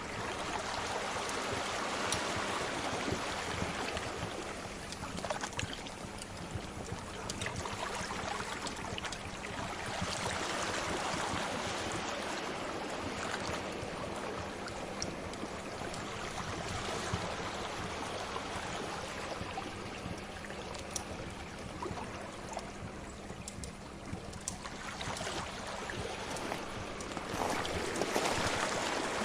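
Sea waves washing in and out, swelling and fading every several seconds, mixed with the scattered pops and crackles of a wood fire.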